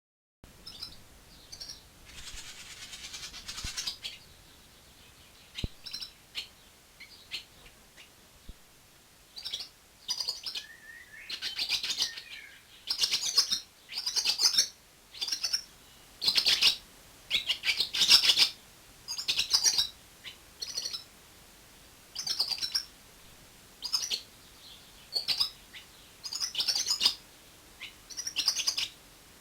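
A small bird chirping: short, high chirps in quick groups, separated by brief pauses.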